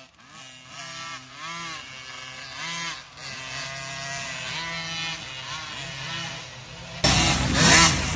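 Small 50cc two-stroke dirt bike engines revving up and falling back again and again as the kids ride the course. About seven seconds in, the engine noise suddenly gets much louder.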